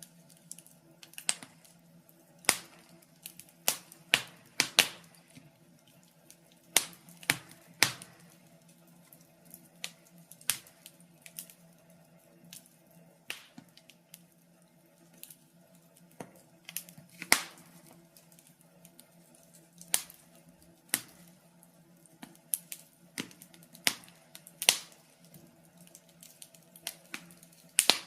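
Wood fire crackling in a fireplace: irregular sharp pops and snaps, roughly one to three a second, some much louder than others, over a faint steady hum.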